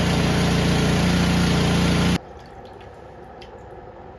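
Powermate 208cc overhead-valve single-cylinder snowblower engine running at a steady speed, stopping abruptly about halfway through. After that only a low background with a few faint clicks.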